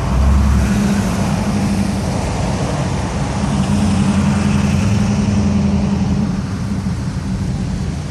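Classic cars driving past, their engines a low rumble that swells once right at the start and again from about three and a half to six seconds in, over steady traffic noise.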